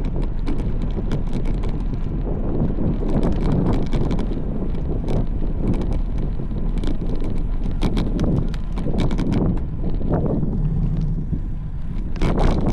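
Wind buffeting the microphone on a moving road bike, with frequent small clicks and rattles from the ride.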